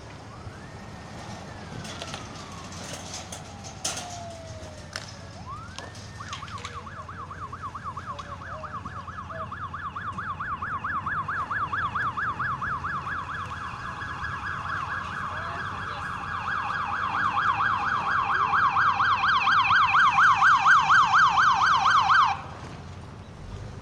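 Emergency vehicle siren in a fast yelp, sweeping up and down several times a second and growing louder as it approaches, then cutting off suddenly near the end. A few sharp clicks and knocks come in the first seconds.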